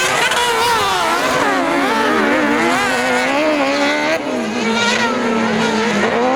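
Several kart cross racing buggies' engines revving together, their pitches rising and falling as the drivers accelerate, shift and lift off through the corners.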